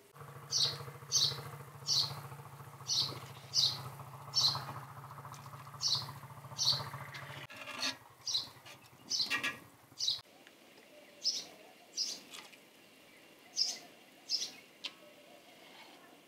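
A small bird chirping repeatedly, one short high call about every half to three quarters of a second, over a low steady hum that stops about ten seconds in.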